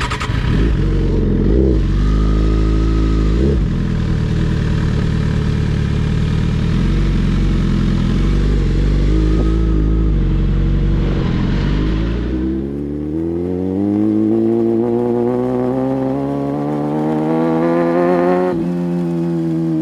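Sport motorcycle engine under way with a heavy low rumble and wind noise, then its revs climbing steadily through a gear for about six seconds before a shift drops them sharply near the end.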